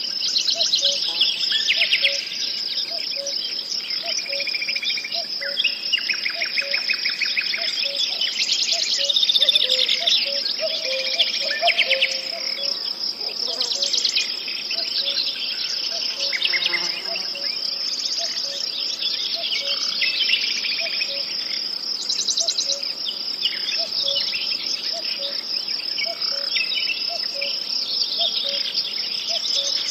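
Nature ambience: crickets trilling steadily and high, with several birds singing varied phrases over them. A low pip repeats about twice a second throughout.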